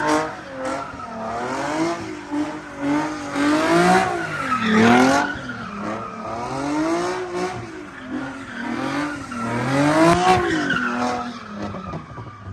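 A car's engine revving up and down in repeated waves, about every two and a half seconds, with tyres squealing and skidding, as in donuts or a burnout.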